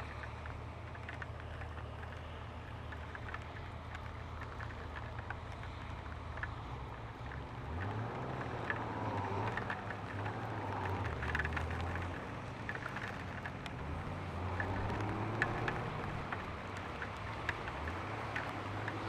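Honda Gold Wing motorcycle engine running at a low, steady idle, with raindrops ticking on the helmet and camera. From about eight seconds in, engine and traffic sounds rise and fall as the bike creeps forward in stop-and-go traffic.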